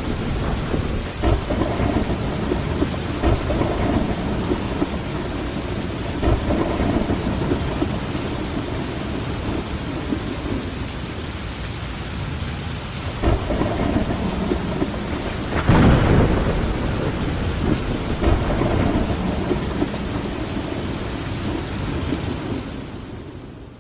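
Steady heavy rain against window glass with rolling thunder, the loudest rumble about sixteen seconds in. The whole sound fades out near the end.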